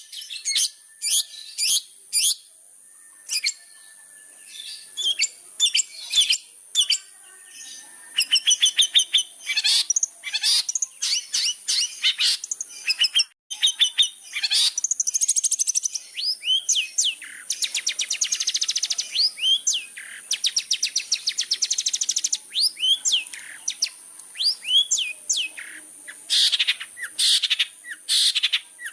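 Long-tailed shrike (cendet) in full song: a varied run of sharp chirps and chattering notes, with fast rattling trills through the middle. A thin steady high-pitched whine runs underneath.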